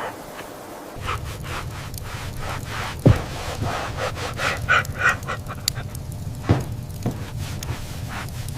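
A dog panting, with scattered crunching and a steady low hum that comes in about a second in.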